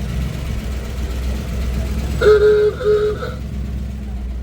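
Car engine running with a steady low rumble. About two seconds in come two short, flat-pitched beeps from a car horn.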